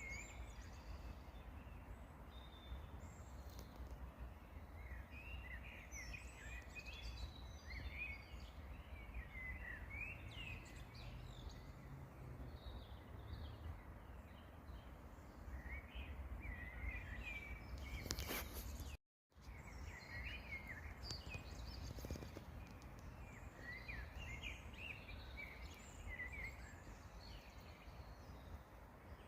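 Several small songbirds singing and chirping in short phrases over a steady low rumble. Near the end there is a brief click, then the sound cuts out completely for a split second before the birds resume.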